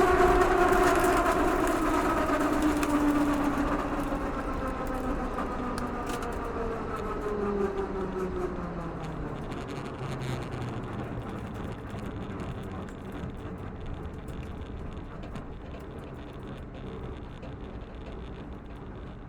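Drag car engine heard onboard, its revs dropping off: the pitch slides steadily down and the sound fades over about ten seconds, leaving a low rumble.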